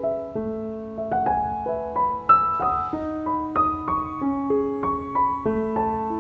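Background piano music: a gentle melody of sustained notes over a slow-moving accompaniment.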